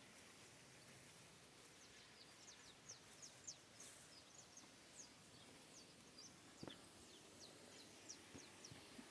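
Faint bird chirping: many short, high chirps that slide downward, scattered irregularly, over a steady faint hiss.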